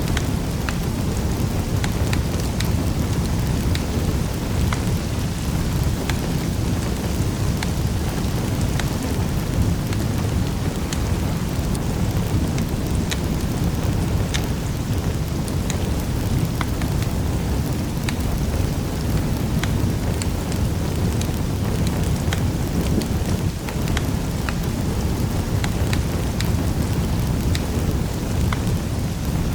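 Fire burning in a fireplace: a steady low rushing sound with frequent sharp crackles and pops scattered throughout.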